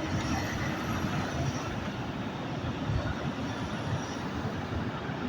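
Garbage truck running as it climbs a hill: a steady, low engine rumble mixed with road noise.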